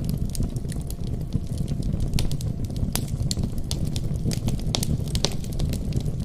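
Fireplace fire burning, crackling with many irregular sharp pops over a steady low rumble; one pop about three seconds in is louder than the rest.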